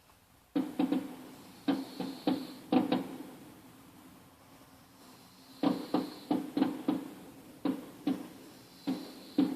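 Sharp bangs in irregular bursts of two to five, each short with a brief ring, with a quieter stretch of about two seconds in the middle.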